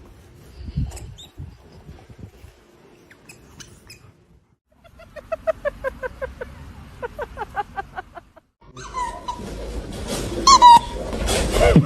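A dog yipping in a quick run of short, pitched calls, several a second, followed by a louder, noisier stretch over the last few seconds.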